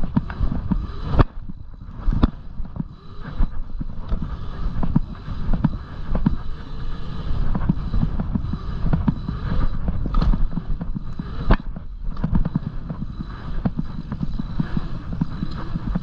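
A Rose The Bruce 2 dirt jump bike being ridden: a low, uneven rumble with many sharp knocks and clatters throughout.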